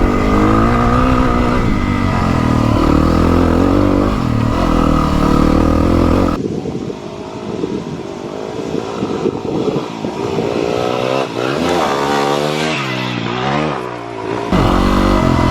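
Yamaha WR250R's single-cylinder four-stroke engine running under load up a steep dirt trail, its revs rising and falling as the throttle is worked. About six seconds in the sound turns thinner and quieter, and it comes back fuller near the end.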